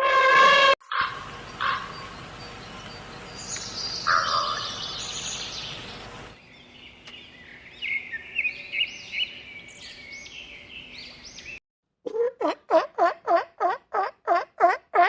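A run of animal calls cut together: a short call, birds chirping and twittering, then a fast series of repeated calls, about four a second.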